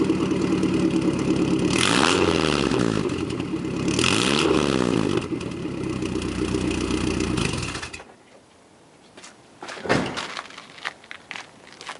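1994 Ford Ranger engine idling through a freshly finished exhaust run straight to the back with a Cherry Bomb muffler, revved twice about two seconds apart, each rev rising and falling back to idle. The engine sound cuts off about two-thirds of the way in, followed by a few light knocks.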